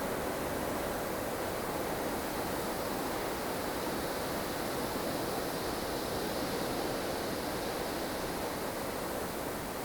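Blustery snowstorm wind blowing as a steady, even rush of noise, with no distinct gusts or breaks.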